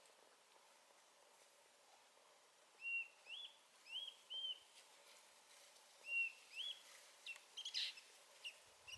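Birdsong: short clear whistled notes, mostly in pairs, beginning about three seconds in, then a run of quicker, higher chirps near the end.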